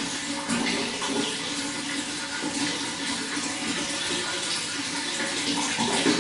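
Water running and splashing in a steady stream.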